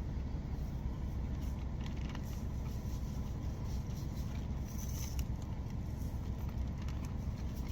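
Steady low rumble of the truck's idling engine, with a few faint light clicks and rustles as salt is added to the marinade bag.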